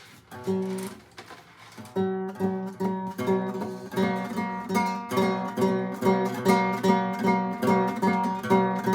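Acoustic guitar strummed: a single chord just after the start, then from about two seconds in a steady rhythm of repeated strums on the same chord.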